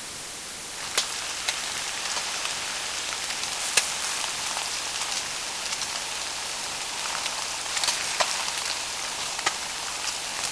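Food frying in hot oil: a steady sizzling hiss with scattered sharp pops and crackles, beginning about a second in.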